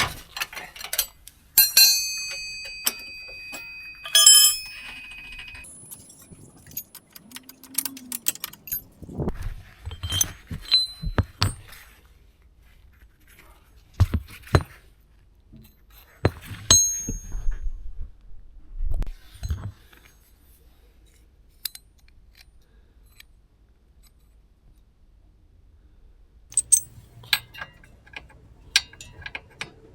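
Metal tools and parts being handled, with scattered sharp clinks and knocks. About two seconds in, a struck piece of metal rings clearly for a couple of seconds.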